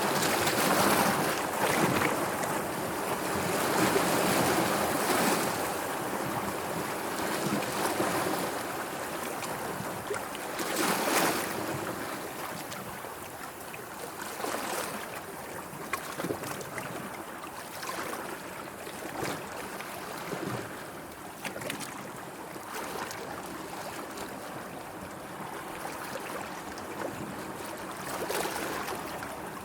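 Sea water washing and lapping, with several louder surges in the first twelve seconds or so, then softer lapping broken by small splashes.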